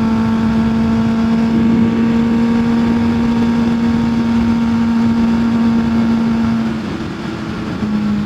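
Kawasaki ZX-6R 636 inline-four engine running at a steady pace under way, over a rush of wind noise. The engine note dips briefly near the end, as on easing off the throttle, then comes back.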